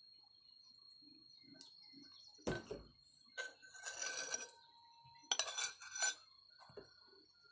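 Dishes and utensils clinking and clattering in three short bursts, about two and a half, four and five and a half seconds in.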